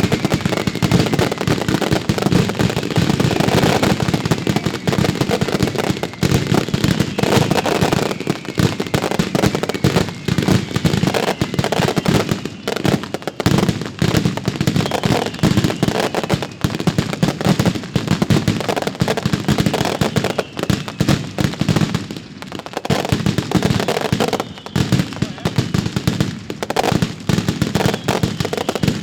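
Professional fireworks display: a dense, continuous barrage of shell bursts and crackling bangs, with a faint falling whistle near the start.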